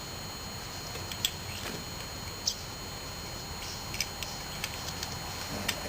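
A few light, scattered clicks and taps from handling mower parts or tools, over a steady background hiss.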